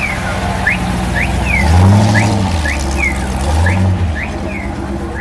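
Hot-rodded sit-up-and-beg Ford saloon driving slowly past, its engine revving up briefly about two seconds in and again just before four seconds. A repeated high chirp, alternately rising and falling, sounds throughout.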